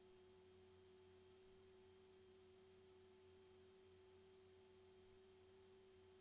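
Near silence: only a faint, steady, low single-pitched tone over a quiet hiss.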